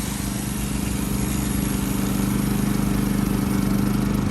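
EuroX JI3500 inverter generator's 171cc single-cylinder four-stroke OHV engine running steadily, growing a little louder over the first two seconds.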